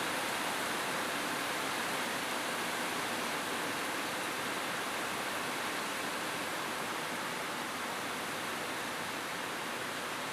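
Steady rain falling on a rooftop, an even hiss with no single drops or thunder standing out.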